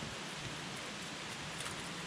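Wood campfire burning: a steady hiss with a few faint crackles.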